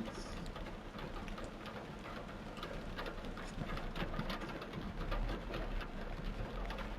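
Torrential rain pelting a car, heard from inside, a dense patter of many sharp drop hits. A low rumble underneath grows louder about five seconds in.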